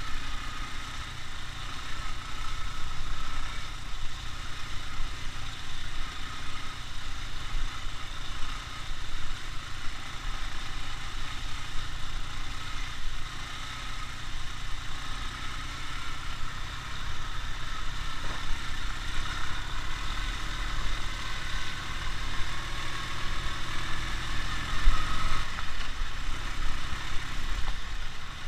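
Ural motorcycle's flat-twin engine running at low, fairly steady revs, its low rumble dipping briefly about three-quarters of the way through.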